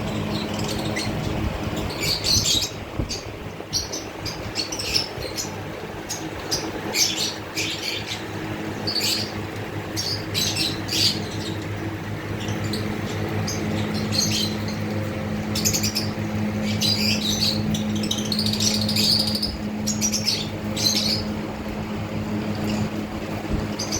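Several lovebirds chirping and squawking, short shrill calls coming every second or so, over a steady low hum.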